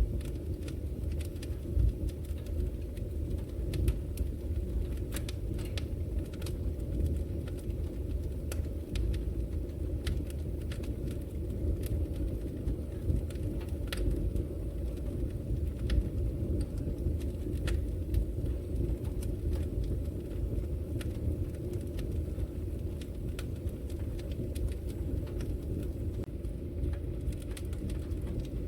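Wood logs burning in a fireplace: a steady low rumble of flame with frequent sharp crackles and pops, a few louder pops standing out.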